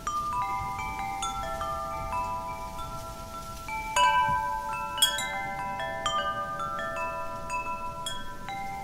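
Metal wind chimes ringing, tubes struck at irregular moments so that several clear tones overlap and sustain, the strongest strikes about four and five seconds in. A faint wind rustle lies underneath.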